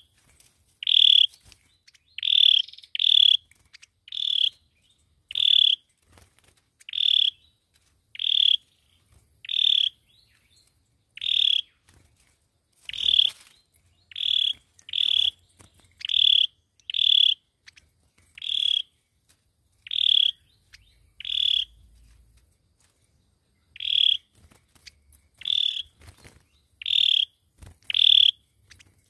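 A sâu dừa bird calling over and over: short, sharp high-pitched notes, about one to two a second, some in quick pairs, with short gaps between them.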